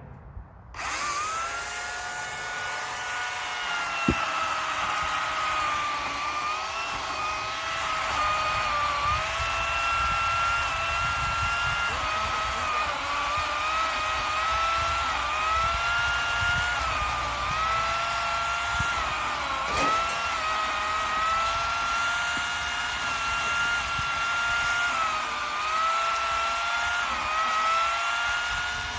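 A power saw cutting firewood starts up about a second in and runs with a steady high whine. The pitch sags briefly several times as the blade bites into the wood under load.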